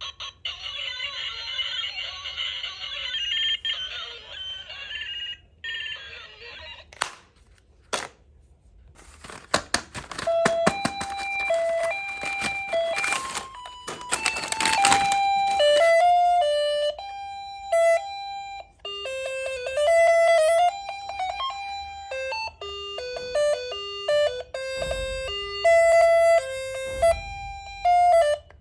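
Simple electronic beeping melody from a toy's sound chip, one clean note after another, starting about halfway through. It is preceded by a couple of clicks and a stretch of crackling.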